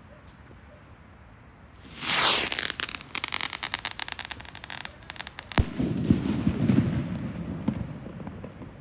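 Fireworks going off: about two seconds in a loud hiss starts, followed by a long run of rapid crackling. A single sharp bang comes at about the halfway point, then a lower rumbling crackle fades away.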